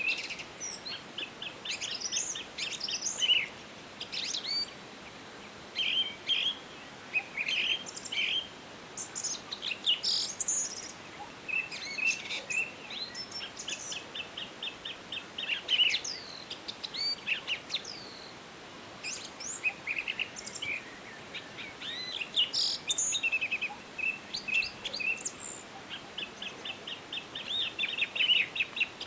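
Several songbirds singing and calling over one another: fast trills of rapidly repeated notes, short chirps and quick downward-sliding whistles, with gaps of a second or two between phrases, over a faint steady hiss.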